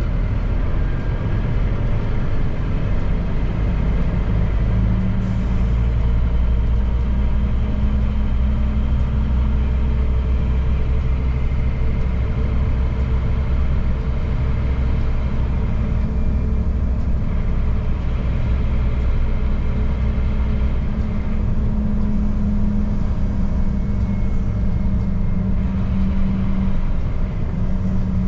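Scania P310 truck's diesel engine running steadily on the move, a continuous low drone mixed with road noise, its engine note firming up about five seconds in and holding.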